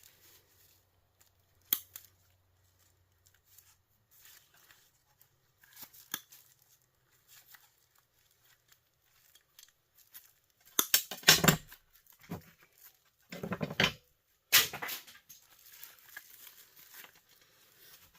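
Hand cutters snipping the zip ties off insulated wire from a scrapped electric heater. Scattered small clicks, then three louder scraping cuts, each under a second, in the second half.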